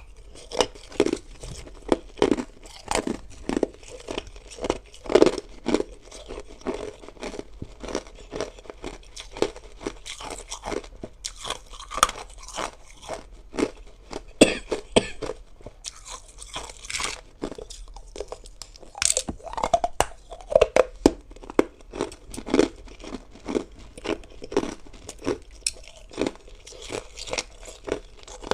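Close-up crunching of hard ice being bitten and chewed, a quick irregular run of sharp crunches several times a second.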